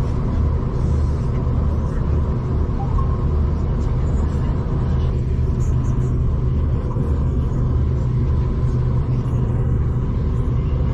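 V/Line passenger train running along the line, heard from inside the carriage as a loud, steady low rumble with no sudden events.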